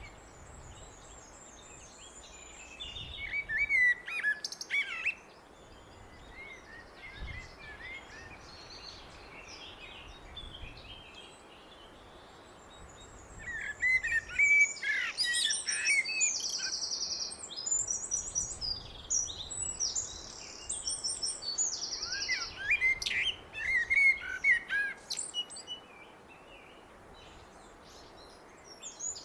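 A blackbird singing three phrases about ten seconds apart. Each is a fluting warble that breaks into a higher, rapid twittering at its end.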